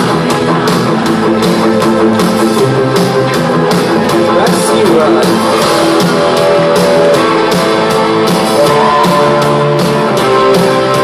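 Rock band playing an instrumental passage: guitars over a steady drum beat.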